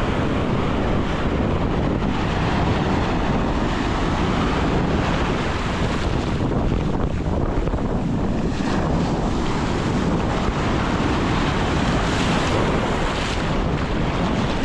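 Ocean surf washing onto a beach, mixed with wind buffeting the microphone: a steady rush of noise that swells briefly twice past the middle.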